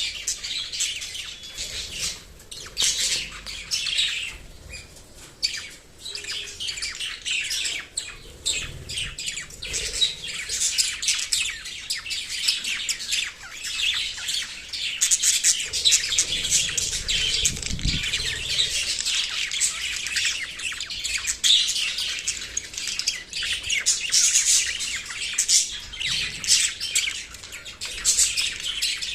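Small pet parrots chirping steadily, with short calls crowding and overlapping without a break.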